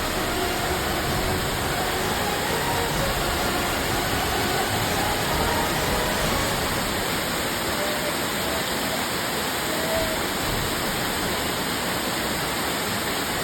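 Waterfall rushing in a steady, even roar of falling water, with faint voices in the background.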